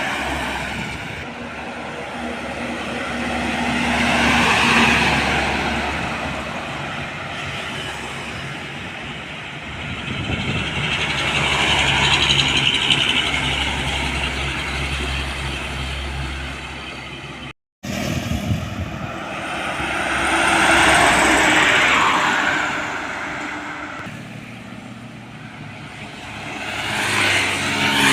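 Heavy road vehicles passing close by one after another: engine and tyre noise swells and fades about four times. The sound cuts out for an instant a little past halfway.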